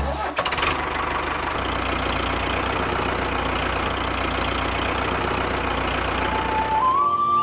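A miniature engine driving a small water pump, running steadily with a fast, even rattle. A flute melody from background music comes in near the end.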